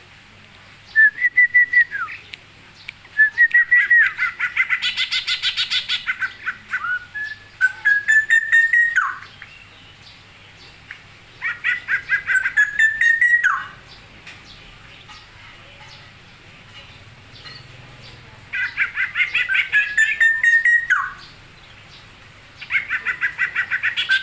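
A songbird singing in bursts of rapid, repeated chattering notes mixed with short whistles, five phrases separated by pauses of a few seconds. The longest phrase runs about six seconds, starting a few seconds in.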